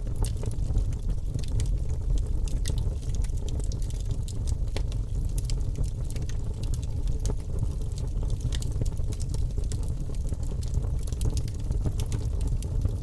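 Wood fire in a fireplace crackling, with many small sharp pops and snaps scattered over a steady low rumble.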